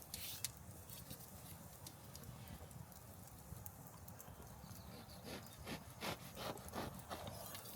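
Faint knocks and clicks over a low rumble, with a quicker run of knocks, two or three a second, in the second half.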